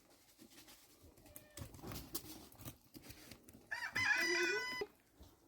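A rooster crows once, about four seconds in, a single loud call lasting about a second.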